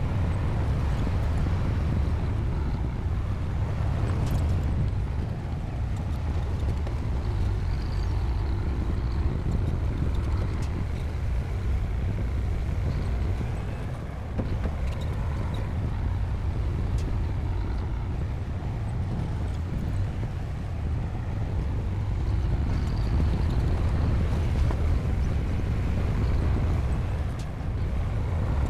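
Diesel engine of a Komatsu D60P bulldozer running steadily at work, a deep, continuous rumble with small rises and dips in level.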